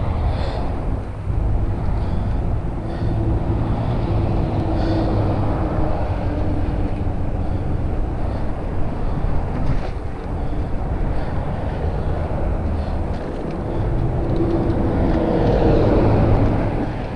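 Wind buffeting an action camera's microphone with tyre rumble during a mountain bike ride. The sound is steady and heavy in the low end, and swells near the end.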